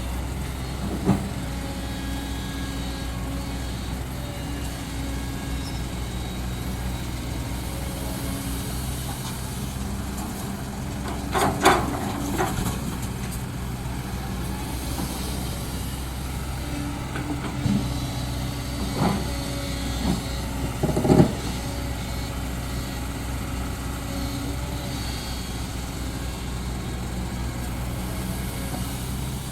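Heavy diesel earthmoving machine's engine running steadily, with a few sharp knocks and clanks from the machine at work, the loudest about two thirds of the way in.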